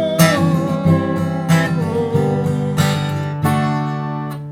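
Acoustic guitar strummed, a run of chord strokes about every half second to second.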